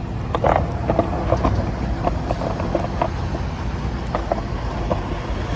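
Steady low rumble of road traffic, with scattered light knocks and clicks at irregular intervals.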